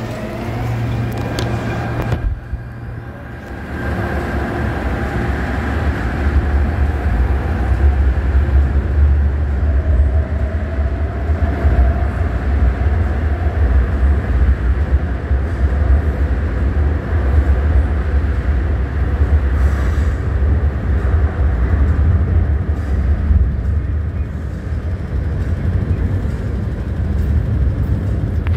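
CAF-built MTR Tung Chung Line electric train pulling out of the station into the tunnel: a heavy low rumble of wheels on rail, with a motor whine that rises in pitch as it speeds up.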